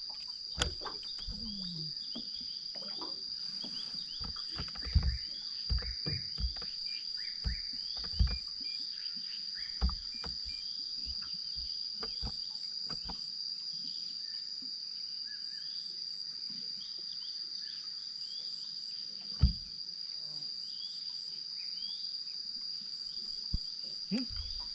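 Steady high-pitched drone of insects calling, with irregular knocks and clicks over it, the loudest about nineteen seconds in.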